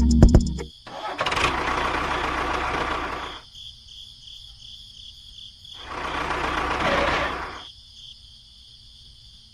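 A small electric motor of a DIY miniature machine running with a steady high whine, surging louder twice with a noisy rush.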